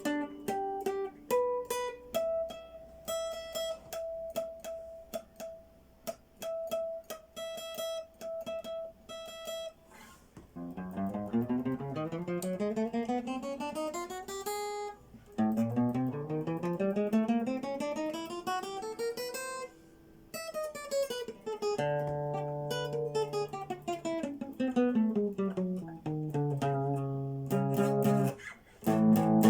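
Elitaro acoustic guitar played solo: one high note picked over and over, then runs of notes climbing up the neck, then a stepwise run coming back down.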